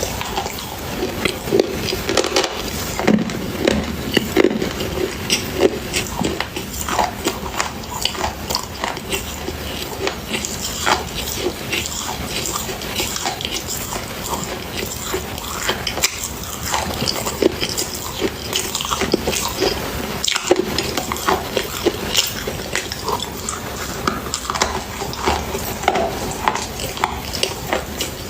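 Close-up crunchy biting and chewing: dense, irregular crackles and snaps that run on without a break.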